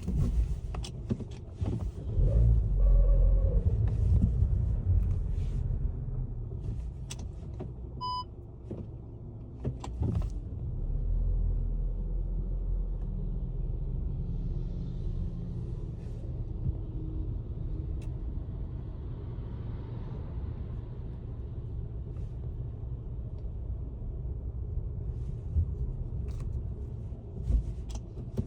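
Audi Q2 35 TFSI with a seven-speed S tronic dual-clutch gearbox driving: a low rumble that swells and eases, with scattered sharp clicks and knocks, the suspect noise heard at gear changes. A short beep about eight seconds in.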